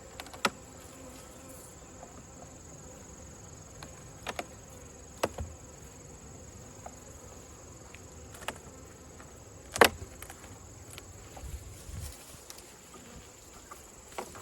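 Honeybees buzzing steadily around an open hive, with scattered sharp clicks and knocks as the wooden hive boxes are worked apart. The loudest knock comes about ten seconds in.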